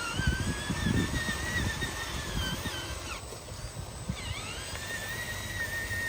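Small electric drive motor and gearbox of an RC dump truck whining, the pitch wavering with the throttle; it cuts out about three seconds in and rises back a second later. Low knocks and rumbles underneath.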